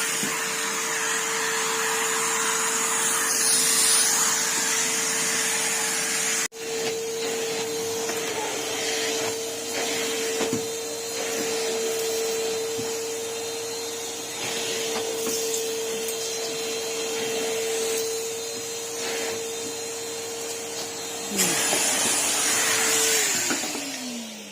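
Numatic Henry Hoover cylinder vacuum cleaner running steadily, its motor giving a constant whine under the hiss of suction, which rises and falls as the nozzle moves while it sucks up spilled salt. Near the end the motor is switched off and its whine falls away as it spins down.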